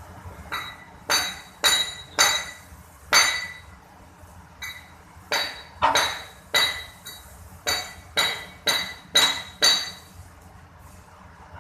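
Hammer blows on the steel parts of a hydraulic hand pallet truck: about a dozen sharp, ringing metal strikes at an uneven pace, stopping about ten seconds in.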